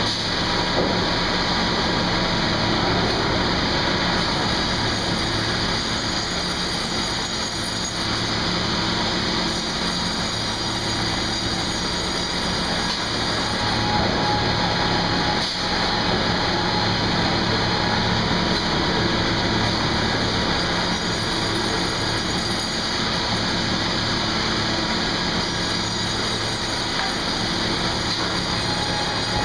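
Sawmill machinery running: a loud, steady mechanical din with a constant hum, unchanging throughout.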